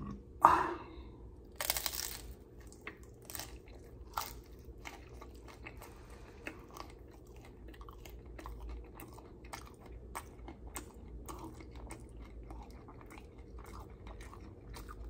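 Close-miked eating of loaded tortilla-chip nachos: a loud crunch of the chip being bitten about two seconds in, then steady chewing with many small crunches.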